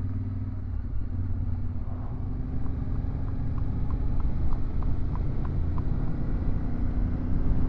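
Yamaha Ténéré 700's parallel-twin engine running steadily while riding, a continuous low rumble. In the middle, a faint regular ticking of about three a second.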